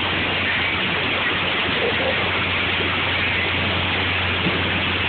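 Heavy rain mixed with hail pouring down and pelting the ground: a dense, steady hiss, with a low steady hum beneath it.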